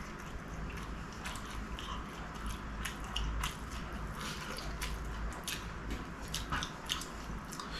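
Close-miked chewing of a fried chicken samosa, with many small irregular crunches and mouth clicks from the pastry, over a steady low hum.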